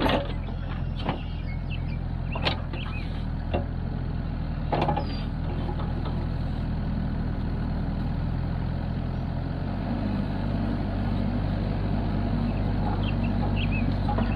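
Kubota KX121-3 mini excavator's diesel engine running steadily, with several sharp knocks in the first five seconds; the engine note shifts slightly about ten seconds in.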